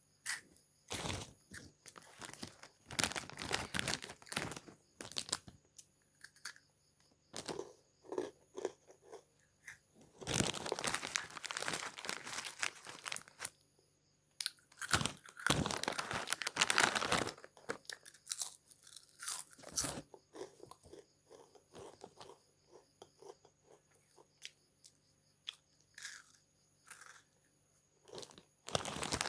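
A crunchy snack being bitten and chewed close to the microphone: crisp crunching in bursts of a second or two, with short pauses between them.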